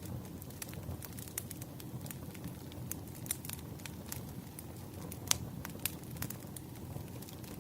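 Fireplace crackling: a steady low rumble of burning wood with irregular sharp pops and snaps, the loudest a little past five seconds in.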